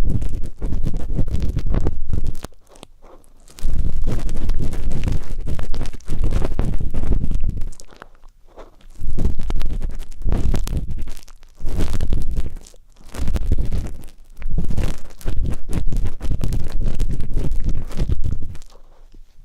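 Ear pick scraping and rubbing in a microphone's ear, close up: a loud scratchy crackle with a deep rumble. It comes in strokes of a few seconds, with several short pauses between them.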